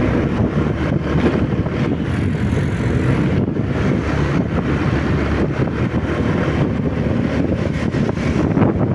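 Steady wind noise buffeting the microphone of a moving motorcycle, with the motorcycle's running and road noise underneath.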